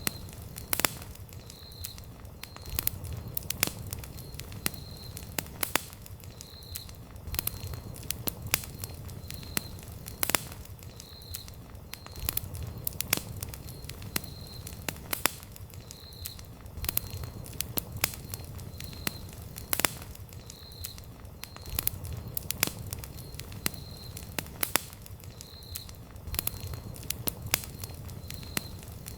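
Wood campfire burning with irregular sharp crackles and pops over a low, steady rumble of flame.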